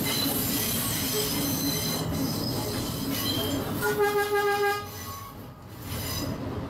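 Train's steel wheels squealing in a steady high whine as it creeps around a curve, with one short, loud horn blast about four seconds in.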